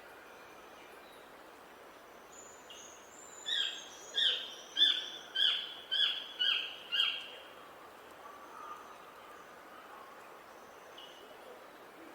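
A songbird sings a run of seven loud, evenly spaced notes, about two a second, with fainter high chirps from other birds around it and a steady hiss of outdoor background noise.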